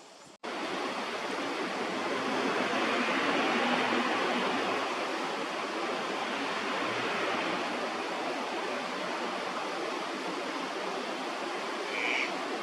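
Steady rushing of water in a park stream channel, an even hiss without rhythm that starts abruptly about half a second in. A brief higher sound is heard near the end.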